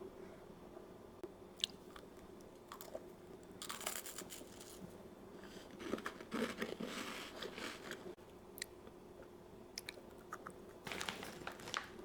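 A person chewing and biting food close to the microphone, in a few spells of crunching with small clicks between.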